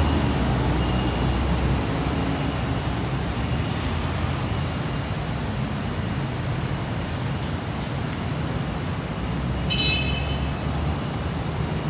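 Busy street traffic dominated by motorbikes and scooters running steadily, with a short horn beep about ten seconds in.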